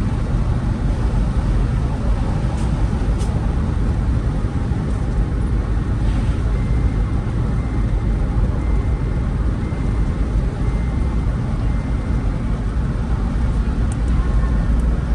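Steady low rumble of a vehicle driving along a road, engine and road noise mixed with wind on the microphone. A faint series of short, even high beeps, about one a second, runs through the middle.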